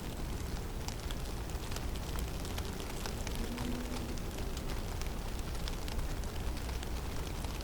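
Snowstorm in a forest: steady low wind rumble, with many small scattered ticks and patters of snow and ice landing.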